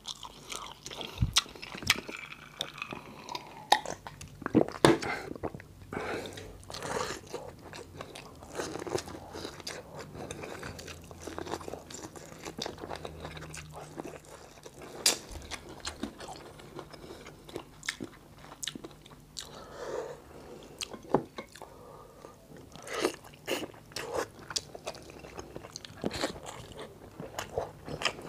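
Close-up eating sounds: a man biting into and chewing boiled corn on the cob, with wet mouth sounds and many short sharp clicks scattered irregularly.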